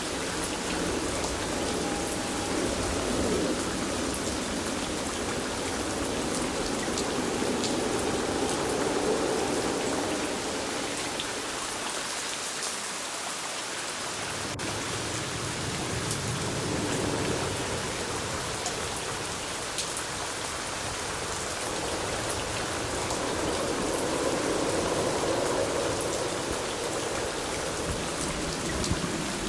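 Steady rain falling, with the ticks of single drops striking a surface over the hiss. A deeper rumble swells and fades a few times beneath it.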